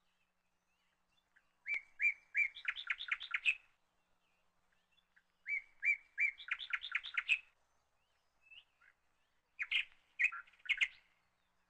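A songbird singing: two matching phrases, each three separate notes that speed into a quick run of notes, then a few shorter notes near the end.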